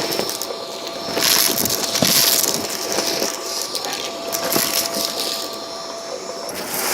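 Vacuum cleaner running with a steady motor whine, its hiss swelling and falling several times as it is worked over a rug, with crackle from a debris mix being sucked up.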